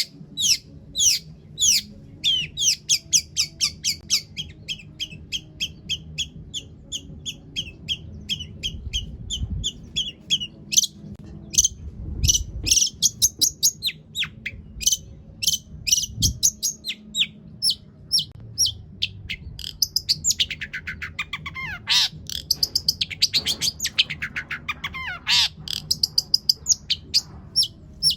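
Long-tailed shrike (cendet) singing a long, varied song of rapid chips and sharp down-slurred notes, with mimicked calls of other birds woven in, over a low steady background hum.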